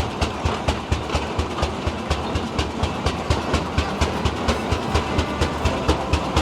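Steam traction engine running, its exhaust and motion beating in a steady rhythm of about four beats a second.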